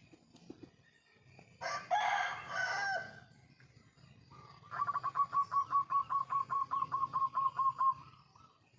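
A rooster crows once, loud and harsh, for just over a second. Then a zebra dove calls a fast, even run of about twenty short notes, roughly six a second, lasting about three seconds.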